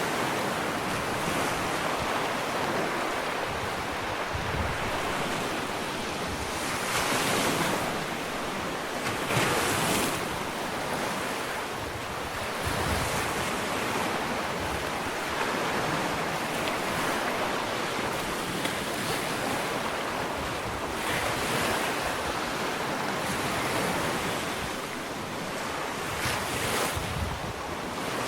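Ocean surf washing onto a sandy beach: a steady rushing wash with several louder surges as waves break, the strongest about ten seconds in.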